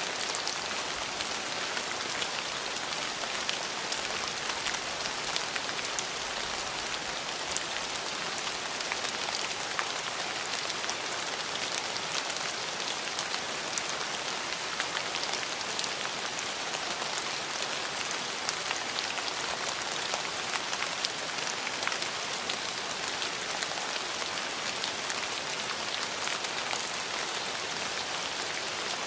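Steady rain falling on hard surfaces: a constant hiss dotted with many small, sharp drop impacts.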